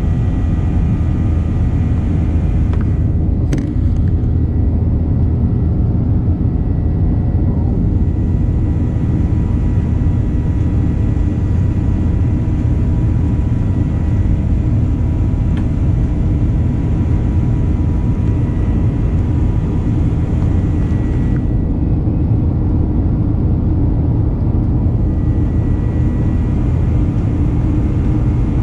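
Steady cabin noise inside a Boeing 737-900ER with its CFM56-7B engines running: a constant low rumble with a faint steady whine, and a single click a few seconds in.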